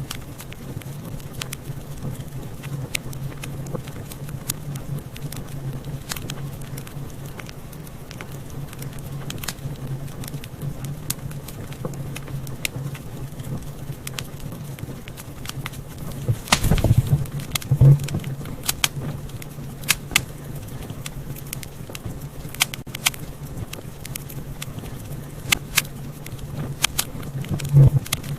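Wood fire crackling in a fireplace: irregular sharp pops and snaps over a low steady rumble, with a flurry of louder pops about two-thirds of the way through.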